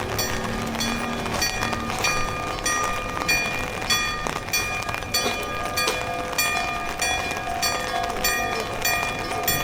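Hankyu Kyoto Line electric train running, with a steady whine of several tones and a regular clicking of the wheels about twice a second. A new steady tone comes in about six seconds in.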